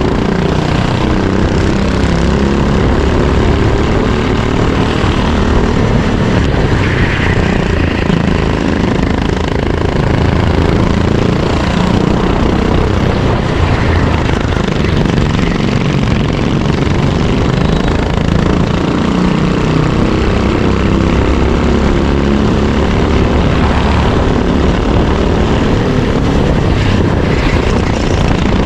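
Racing kart engine heard onboard at race pace, its pitch rising and falling as the kart accelerates and slows through the corners.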